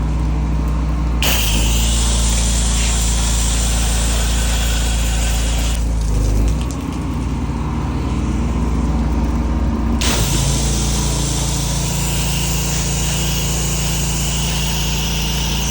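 Pressure washer engine running steadily, with the hiss of water spraying from the wand starting about a second in and changing strength as the spray is worked. The engine note dips briefly a little past the middle.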